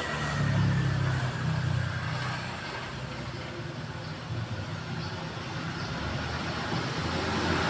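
Steady motor-vehicle engine and road-traffic noise, loudest from about half a second to two seconds in.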